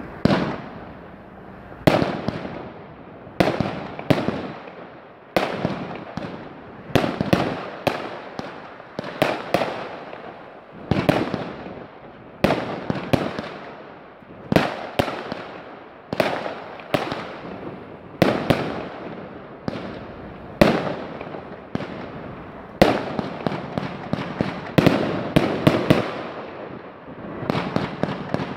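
Fireworks going off in a steady series of sharp bangs, about one every one to two seconds and some in quick pairs, each trailing off as it fades.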